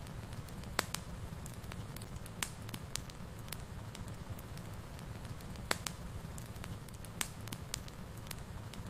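Fireplace fire burning with a steady low rumble and irregular sharp crackles and pops, a few of them louder, about a second in and near six seconds in.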